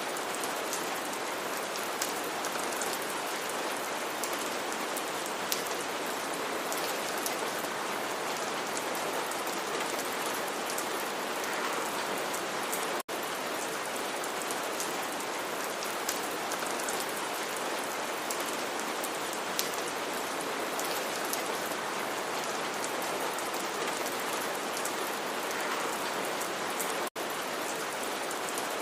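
Steady rain falling, with scattered sharper ticks of single drops. The sound cuts out for a split second twice, about halfway through and near the end.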